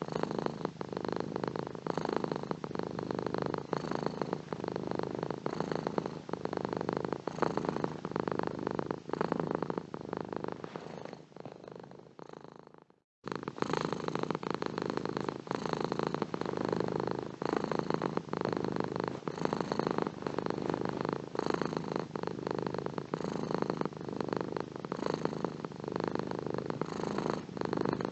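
Domestic cat purring steadily with a fast, even rumble. About ten seconds in it fades away to a moment of silence, then starts again abruptly at full strength about 13 seconds in.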